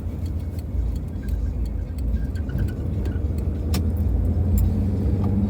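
Car interior road noise while driving: a steady low rumble of engine and tyres, with a few faint clicks.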